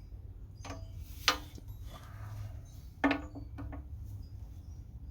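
A few sharp metallic knocks and clinks of a tool working at a stuck fuel valve on a motorcycle gas tank, with a short ring after each; the loudest comes about a second in and another about three seconds in.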